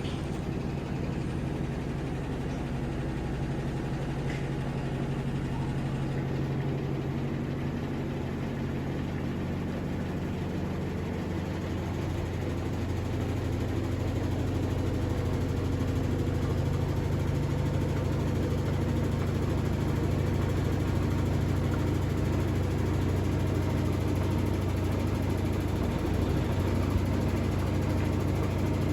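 Electrolux Ecologic 12 kg washing machine running with a steady motor hum, a little louder from about halfway through.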